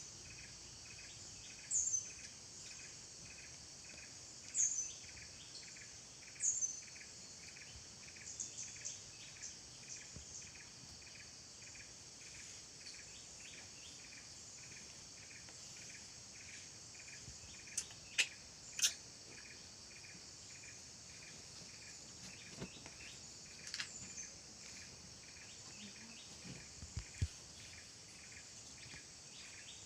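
Outdoor insect chorus: a steady high buzz with an evenly pulsing chirp beneath it, crossed by a few short falling bird chirps in the first several seconds. A few sharp clicks come about two-thirds of the way through.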